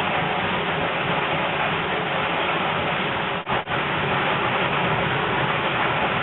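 1953 Thor Automagic combination washer–dishwasher running with a steady rushing noise, broken by two brief dips in sound about three and a half seconds in.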